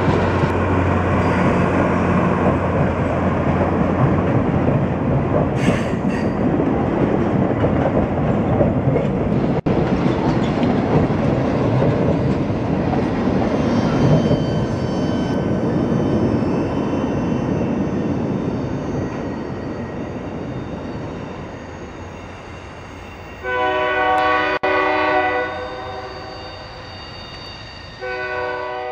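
Passenger train cars rolling past close by, a steady rush of wheels on the rail that slowly fades as the train moves away. About two-thirds of the way through, the train horn sounds a chord for about two seconds, then gives a shorter blast at the very end.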